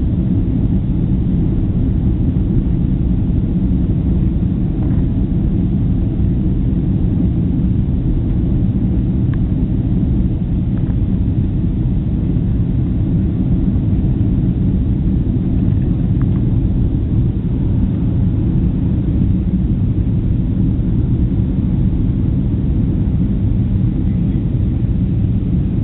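Steady low rumble of a passenger jet airliner's engines in flight, unchanging throughout.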